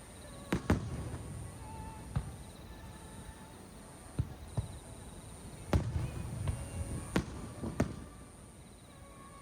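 Aerial fireworks shells bursting: about eight sharp bangs at irregular intervals, each followed by a low rumbling echo.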